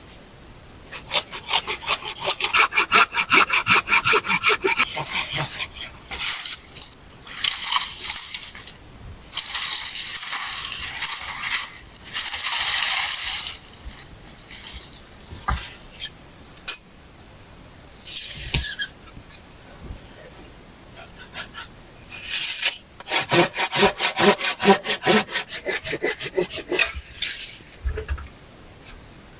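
Hand saw cutting through wood, in runs of quick back-and-forth strokes broken by pauses and a few longer, smoother passes.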